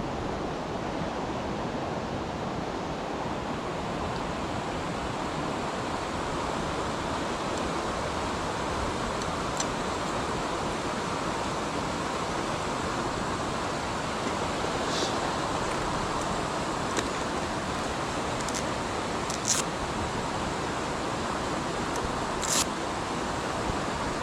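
Steady rush of a mountain stream's flowing water, with a few short, sharp high clicks in the second half.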